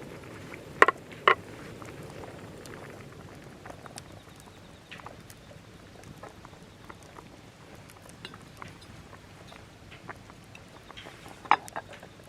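Scrap-wood campfire crackling, with scattered small pops and a few sharper snaps about a second in and again near the end.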